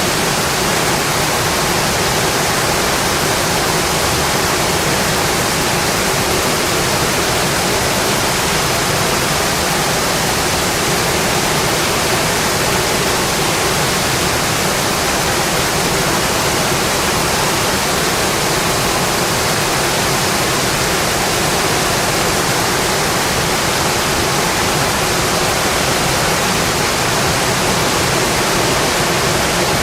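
Steady rainfall: an even, unbroken hiss with no separate drops, thunder or other sounds standing out.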